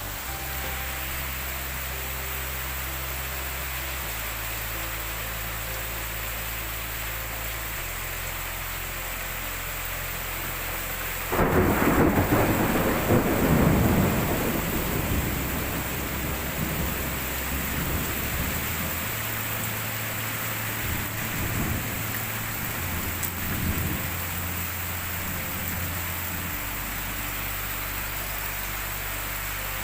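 Heavy rain falling steadily. About a third of the way in, a sudden loud crack of thunder that rumbles on for several seconds, fading.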